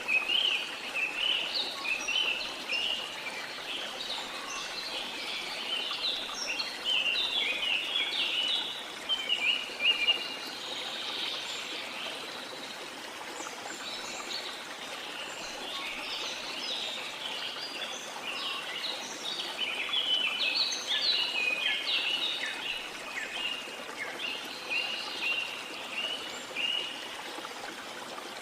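Many birds chirping and singing in quick overlapping phrases, busiest in two stretches, over the steady hiss of flowing water.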